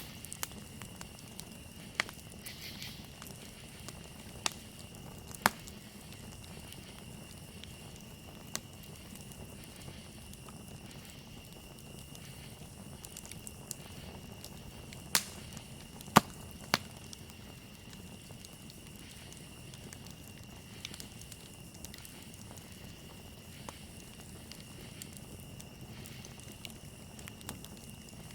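Campfire crackling, with scattered sharp pops, the loudest about halfway through. Under it runs the steady high trill of crickets.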